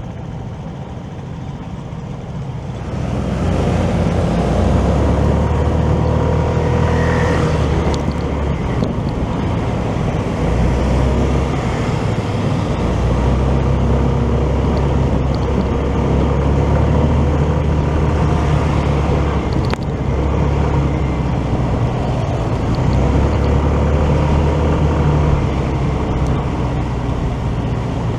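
Motorcycle riding in city traffic: steady engine and road noise, which gets louder about three seconds in.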